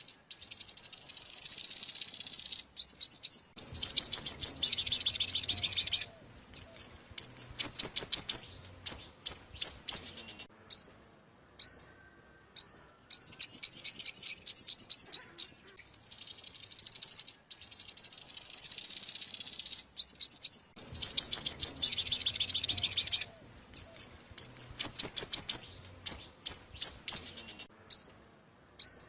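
Sunbird song, the bird keepers' 'five-colour sunbird': high, fast trills lasting a couple of seconds, alternating with quick runs of sharp separate notes and short pauses. It is a repeating lure recording for glue-trapping sunbirds.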